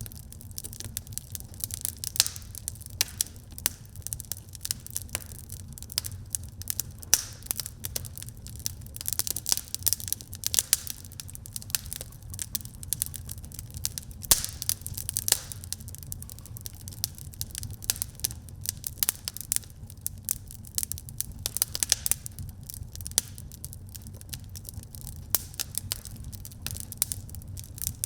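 Wood fire crackling in a fireplace: a dense, irregular run of sharp pops and snaps over a steady low rumble of the flames.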